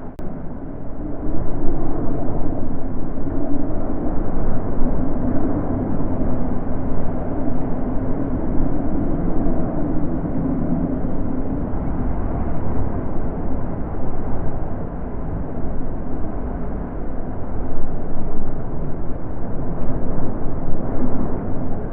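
Natural wind blowing: a steady rushing noise with a low rumble, swelling and easing in gusts.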